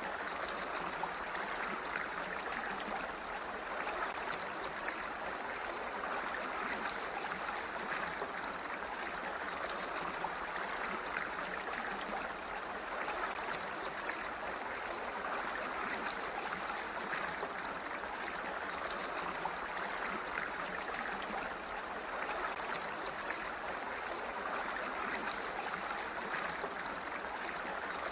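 Flowing water, a steady even rush.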